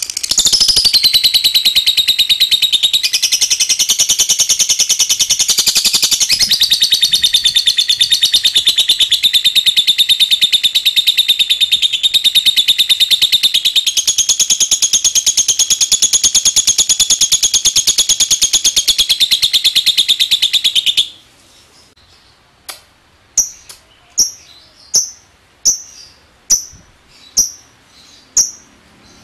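Lovebird giving its long 'ngekek' song: a loud, very fast, unbroken trill lasting about twenty seconds that stops abruptly. It is followed by a string of short, sharp single chirps, about one a second.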